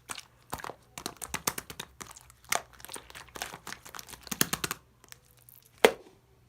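Clear slime worked by hand, giving irregular crackling clicks and pops, with one loud pop near the end.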